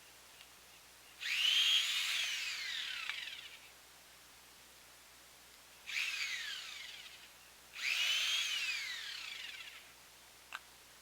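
A chainsaw revved three times. Each time the whine jumps up and then slides down in pitch as the engine winds back toward idle.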